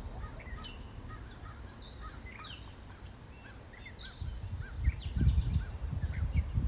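Several songbirds chirping and singing, with short sweeping notes and a run of repeated arched chirps, over a low rumble that grows louder about four seconds in.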